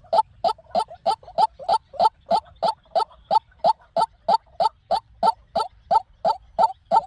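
White-breasted waterhen calling: a fast, even series of short, harsh croaking notes, about three a second, starting after a brief pause.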